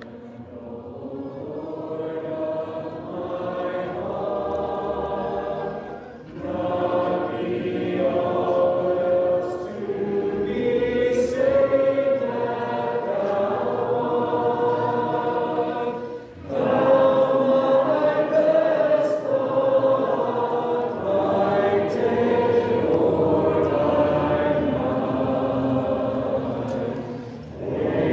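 A congregation singing a hymn together in unaccompanied harmony, in sustained phrases with brief breaks between the lines.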